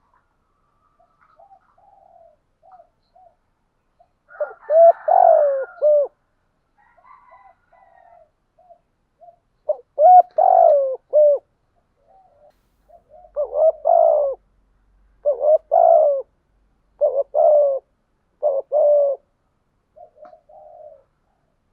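Spotted doves cooing: a few soft short coos, then a series of six loud cooing phrases, each about one to two seconds long and a couple of seconds apart, with softer coos again near the end.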